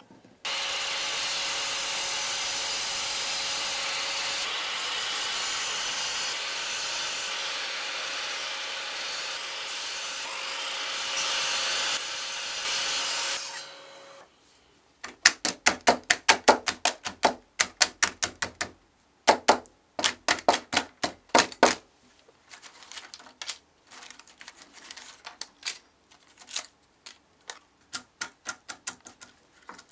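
Sliding miter saw running steadily and cutting beech for about fourteen seconds, then shutting off. After a short pause come rapid runs of sharp snaps as a chisel breaks out the thin beech slivers left between saw kerfs, loud at first and then lighter and more scattered.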